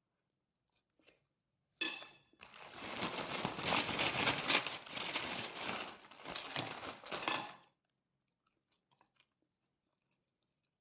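Loud, dense crunching of kerupuk crackers being chewed with fried rice, starting suddenly about two seconds in and stopping about six seconds later.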